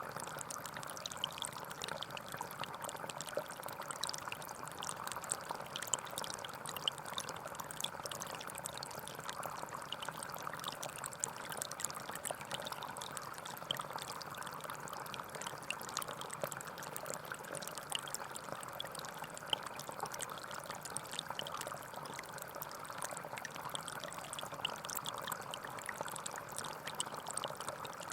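Small forest stream flowing steadily over stones, a continuous babble with many small splashes and trickles.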